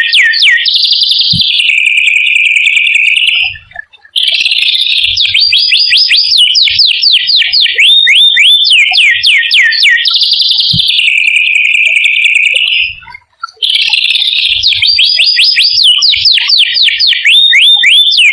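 A small songbird's loud rolling song. Fast runs of high down-slurred whistles, several a second, alternate with short held buzzy notes. The song breaks off briefly twice, about 4 and 13 seconds in, and starts again.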